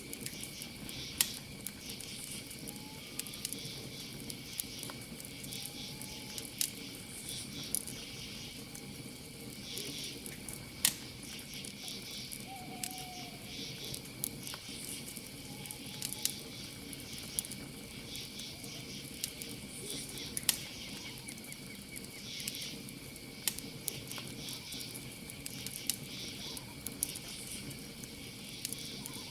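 Wood campfire crackling with scattered sharp pops over a low rushing burn, three pops standing out as loudest. Behind it, crickets keep up a steady high trill.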